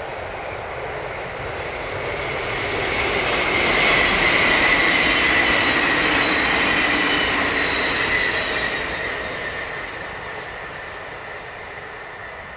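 Double-deck NS electric passenger train passing by: rolling noise that builds as it approaches, is loudest about four to eight seconds in, then fades as it moves away, with a high steady whine through it.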